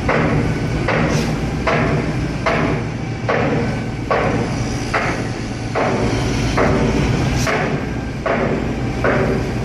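Concrete pump working: a regular clunk with a short rush about every 0.8 seconds, one for each pump stroke, over the steady low running of the pump truck's engine.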